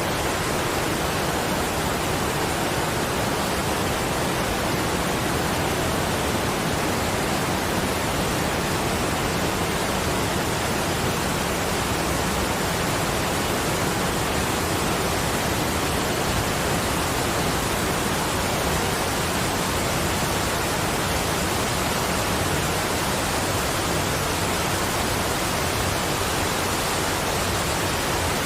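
Steady rushing sound of falling water, an even hiss across low and high pitches with no separate drops, splashes or tones, played as a relaxing sleep sound.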